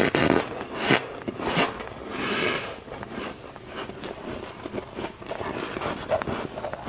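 Crunchy bites and chewing of flaky freezer frost, a few loud crunches in the first three seconds, then quieter crackling chews.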